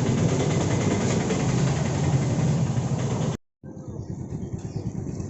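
A motor vehicle's engine running steadily, cut off abruptly about three and a half seconds in and followed by quieter outdoor ambience.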